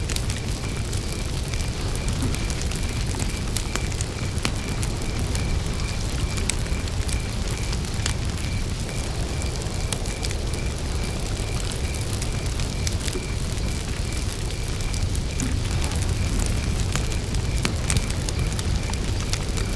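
Wood campfire burning, with frequent sharp crackles and pops over a low steady rumble. A cricket chirps steadily in the background, about three chirps a second.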